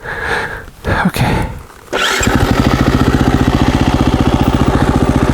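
KTM 350 EXC-F's single-cylinder four-stroke engine starting about two seconds in, catching at once and then idling steadily with an even, rapid pulse.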